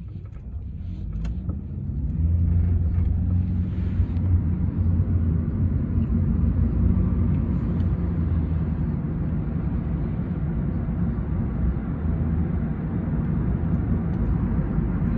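Car engine and road noise heard from inside the cabin: a low rumble that grows louder over the first two seconds as the car picks up speed, then holds steady.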